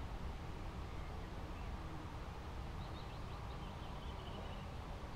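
Faint songbird song over a steady low background rumble: a few short high notes about three seconds in, then a quick falling run of notes.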